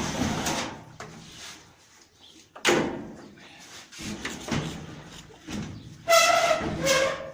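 Knocks and clatter from a top-load washing machine's lid and panels being handled, with one sharp knock a few seconds in and a short, high squeal near the end.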